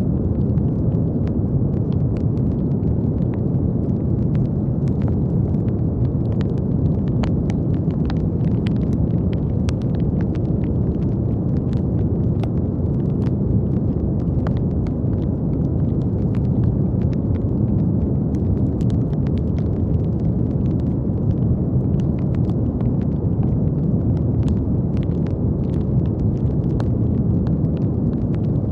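Brown noise: a steady, deep rushing hiss with most of its weight in the low range, like a distant rumble, never changing in level. Faint scattered clicks sit lightly on top of it.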